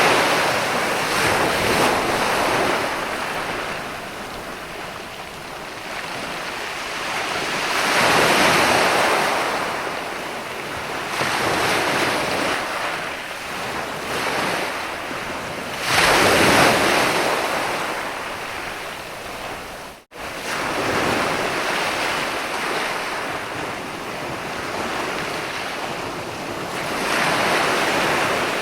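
Mediterranean sea waves breaking and washing onto a beach, swelling and fading about every eight seconds. The sound cuts out for a split second about two-thirds of the way through.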